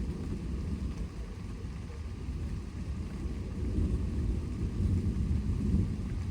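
Thunder rumbling low and rolling, with a faint hiss of rain; the rumble swells again in the second half.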